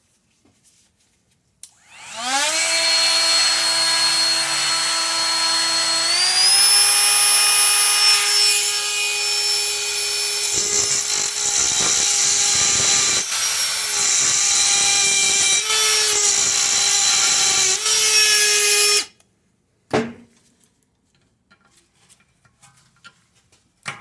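High-speed rotary cutting tool spinning up with a rising whine, its pitch stepping higher a few seconds later, then cutting a slot into a seized brake rotor retaining screw with a gritty grinding that pulls the pitch down in places, before stopping sharply; a single knock follows. The slot is being cut so the stuck screw can be turned out with a flat screwdriver.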